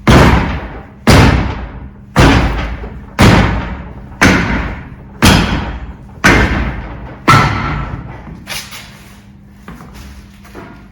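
Eight heavy, echoing blows struck at an even pace of about one a second, then a few lighter knocks.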